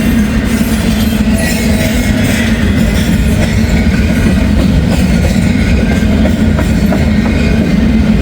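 Freight train of empty cars rolling past, a steady loud rumble and clatter of wheels on the rails.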